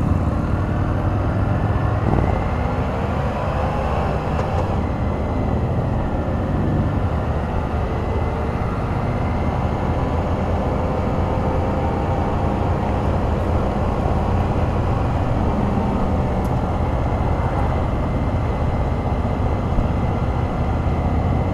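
Can-Am Spyder RT three-wheeler riding on the road: its three-cylinder engine runs under a steady rush of wind and road noise. The engine note rises over the first few seconds as it picks up speed, then holds at a steady cruise.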